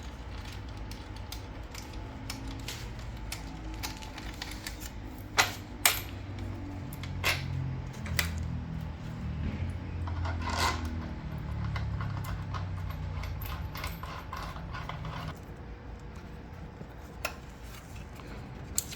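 Hand tools working a motorcycle exhaust mounting bolt: scattered sharp metal clinks and clicks, a handful close together in the middle, over a low steady hum that stops about fifteen seconds in.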